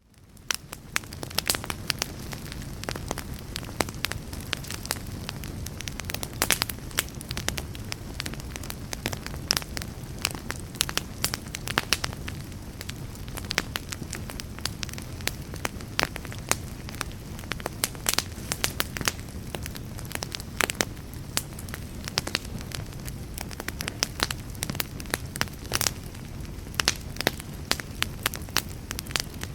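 Fireplace fire crackling: a steady low rumble of burning with frequent sharp pops and snaps, fading in over the first second.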